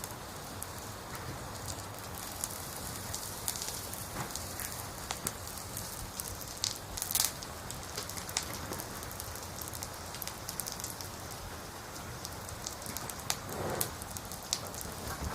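Campfire with firewood burning: a steady crackle and hiss broken by irregular sharp pops, a few of them louder about halfway through and near the end.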